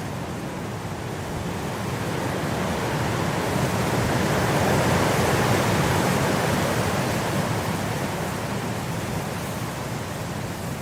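Blizzard wind blowing, a steady rush of noise that swells into a stronger gust around the middle and then eases off again.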